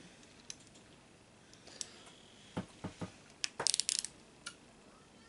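Light metallic clicks and clinks from hand tools knocking against an aluminium throttle body, scattered through the few seconds, with a quick run of sharp taps a little past the middle.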